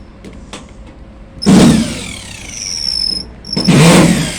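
Electric screwdriver or drill motor triggered twice, each a short loud burst of spinning followed by a high whine that winds down.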